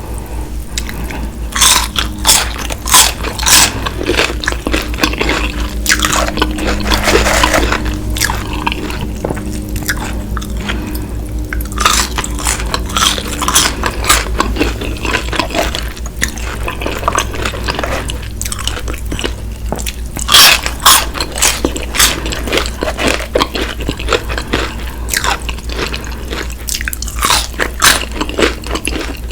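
Close-miked biting and chewing of crispy fried chicken: irregular sharp crunches, some loud, with wetter chewing sounds between them.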